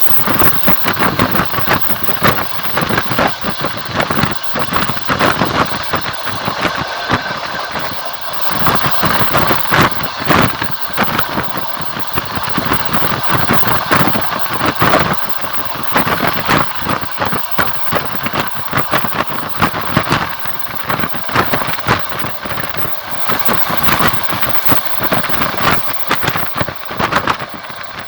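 Train wheels clattering over the rails as the train runs, heard from a passenger carriage window, with a steady rushing noise and many close-spaced knocks throughout.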